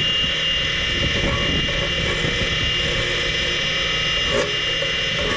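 Electric power tool spinning a wire wheel at a steady speed, its motor whine held on one pitch over a scratchy rumble as it wire-brushes long bolts clean.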